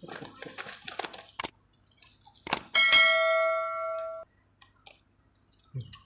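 A single bell-like ding with several clashing overtones, held about a second and a half and cut off abruptly, just after a sharp knock. Light clicking and rustling come before it.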